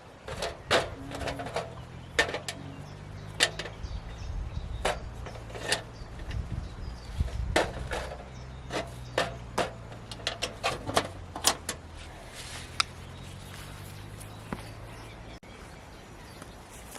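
A string of irregular sharp knocks and clicks, over a steady low hum that cuts off about fifteen seconds in.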